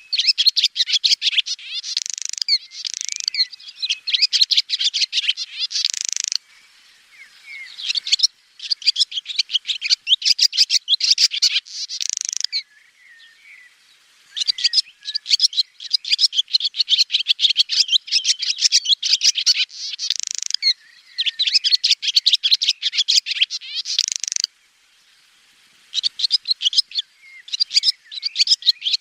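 Swallow twittering: long runs of rapid, high chirps and trills, in phrases of a few seconds broken by short pauses.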